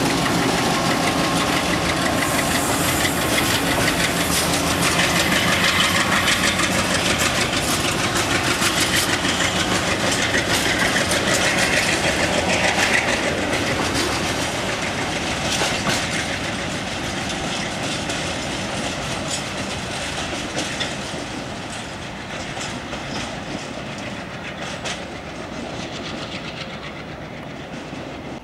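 Train running along the track with wheels clattering over rail joints in a rapid series of clicks. It is loud at first, then fades gradually over the second half as it moves away.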